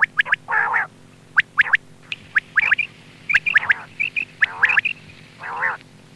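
Quail calling over and over: quick clusters of sharp, short whistled notes alternating with rougher, raspier calls about once a second.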